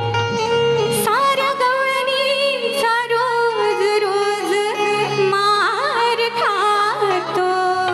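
Traditional Konkan folk music for a gavlan song: an ornamented melody with sliding, wavering pitch over a steady low drone.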